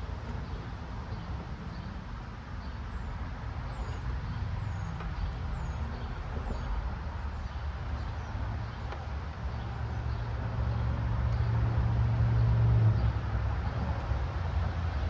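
Low, steady rumble of a motor vehicle engine, swelling to its loudest about two-thirds of the way through, then easing. A few faint, high, falling chirps sound in the first half.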